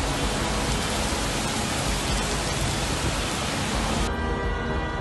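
Heavy rain and running floodwater making a dense, steady hiss. About four seconds in it cuts off abruptly to a quieter hiss with steady held tones.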